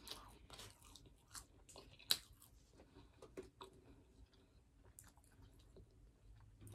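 A person chewing a mouthful of fast food: faint, irregular wet smacks and small crunches, with one sharper click about two seconds in.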